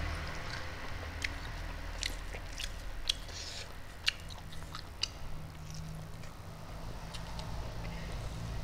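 A man chewing a mouthful of rice and side dishes, eaten by hand, with wet lip smacks and sharp mouth clicks every second or so. A steady low hum runs underneath.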